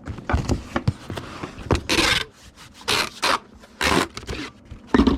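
Packing noises: about five short scraping rubs as a comic book is handled into a cardboard mailer, with small knocks between them.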